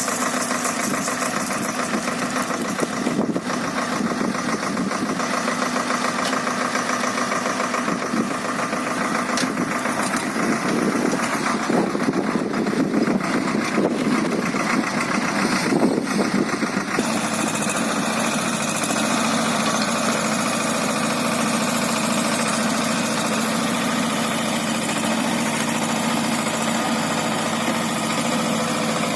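Swaraj tractor's diesel engine running, louder and rougher for several seconds in the middle, then settling into an even idle.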